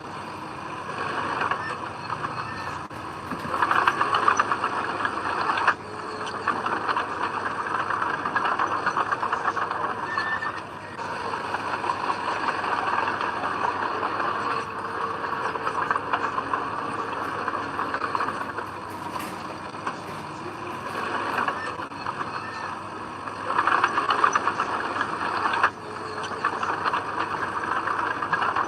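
Heavy diesel earthmoving machinery working: a steady engine and mechanical clatter, with two louder surges, one a few seconds in and one near the end, each cutting off abruptly.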